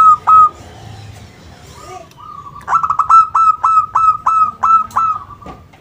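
Zebra dove (perkutut) cooing in its staccato song: a phrase of short, clipped coos ends just after the start, then a second run of about ten notes, quick at first and then more spaced, begins about three seconds in.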